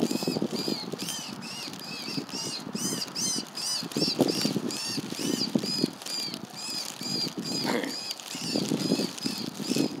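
A bird calling in a steady series of short, high chirps, about three a second, over low rustling noise.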